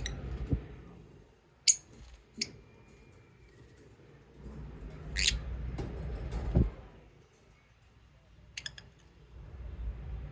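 Pet lovebirds giving a few short, sharp chirps and clicks spread through a quiet stretch, with a couple of low thumps from the birds moving about.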